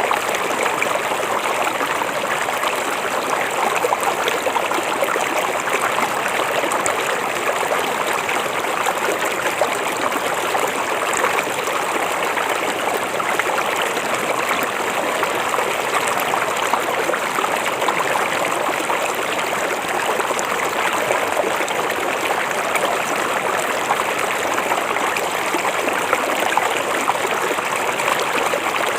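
River water flowing over stones, a steady rushing and babbling with no break or change.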